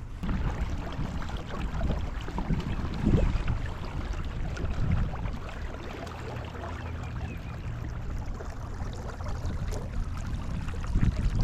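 Wind buffeting the microphone on a kayak, a low rumbling rush with louder gusts about three seconds in and again near the end.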